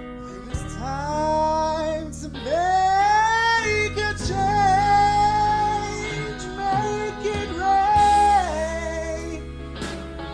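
Singing over band accompaniment: a voice holding long notes and sliding between pitches in a wordless run.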